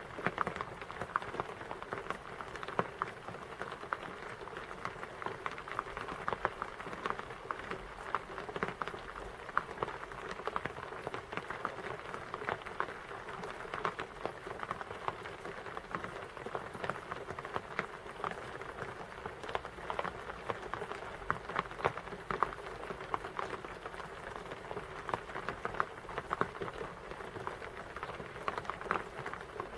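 Rain pattering steadily on a surface: a dense, even run of small irregular drop ticks.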